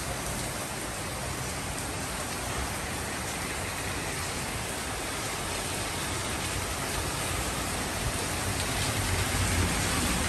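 Heavy rain pouring steadily, a dense even hiss that grows a little louder near the end.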